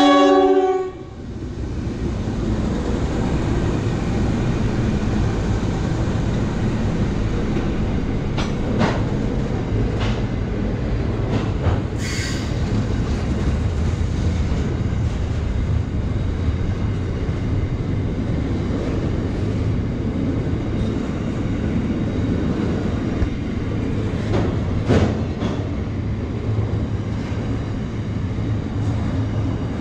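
Container freight train passing close by, hauled by NR class diesel-electric locomotives. The locomotive horn's chord cuts off about a second in, then the wagons keep rolling steadily past on the rails, with a few sharp clicks from the wheels and a brief high squeal about twelve seconds in.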